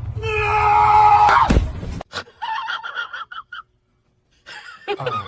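A loud, drawn-out scream lasting about a second and a half, followed by short broken voice sounds like laughter.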